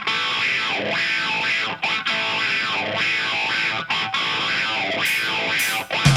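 Electric guitar played alone through effects with distortion, opening a blues-rock track, its phrases broken by short gaps about once a second.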